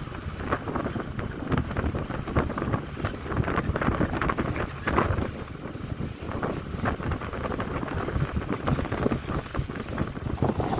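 Wind buffeting the microphone aboard a ship under way at sea, over a steady low rumble and the rush of water along the hull, with frequent gusty surges.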